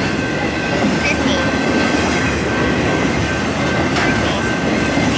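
BNSF intermodal freight train rolling past close by, its well cars loaded with truck trailers and double-stacked containers: a steady, loud rumble of steel wheels on rail, with a thin steady high whine and a few faint clicks.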